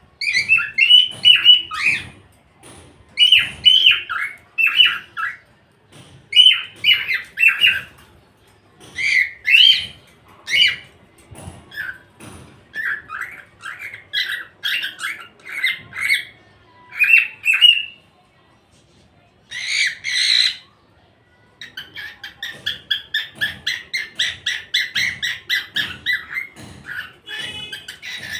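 Cockatiel calling in short groups of chirps and squawks, with brief pauses between them and a harsh squawk about two-thirds of the way in. Near the end it breaks into a fast run of repeated chattering notes, about four a second.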